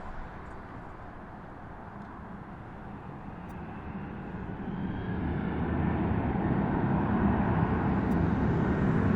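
Jet airliner engines, a low rumble that grows steadily louder from about four seconds in.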